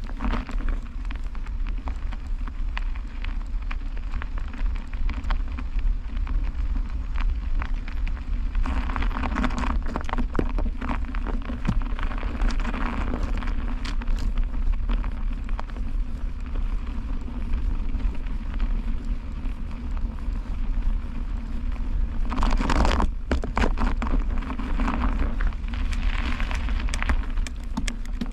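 Wind rumbling on the microphone during a bicycle ride, with crackling tyre and road noise on a wet, slushy road. The crackle swells twice, about a third of the way in and again near the end.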